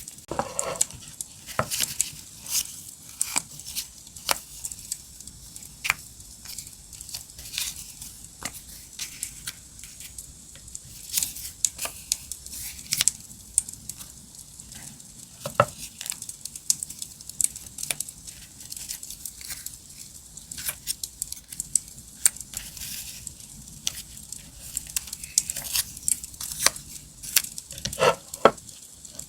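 Campfire crackling with irregular sharp pops and snaps, mixed with the rustle and crinkle of paper and stickers being handled.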